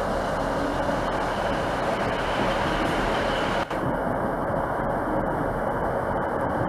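A train running, heard as a steady, even rail noise, with a momentary break a little past halfway.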